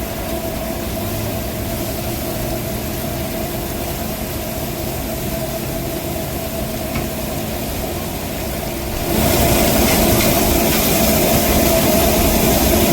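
An engine running steadily at idle, a droning hum with a couple of held tones, which steps up in loudness about nine seconds in.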